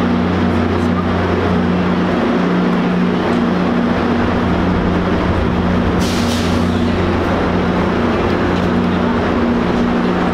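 Commuter trains standing at the platform, their diesel engines giving a steady low hum, with a short hiss of released air about six seconds in.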